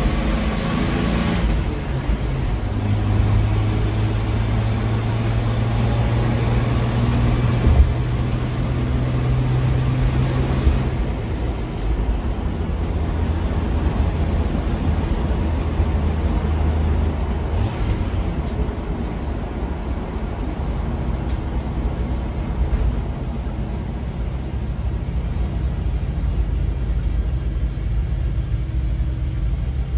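1992 Jeep Wrangler's engine running while driving, heard from inside the cabin with road noise. The engine's steady hum changes pitch twice, once about a third of the way through and again a little later, and there is a single sharp knock early on.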